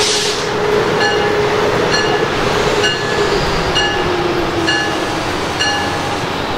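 Amtrak Acela Express electric power car pulling into the platform and slowing to a stop, its motor whine gliding down in pitch as it slows. A bell rings steadily about once a second throughout, and there is a short hiss of air right at the start.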